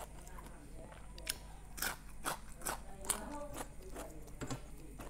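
Close-up crunching and chewing of a raw cucumber slice topped with steamed egg: a run of crisp crunches, several a second, from about a second in.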